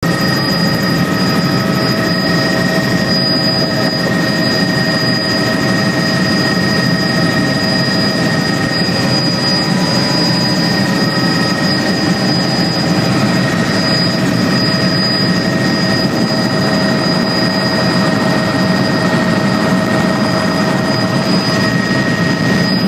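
A steady, loud mechanical drone with several constant whining tones, unchanging throughout.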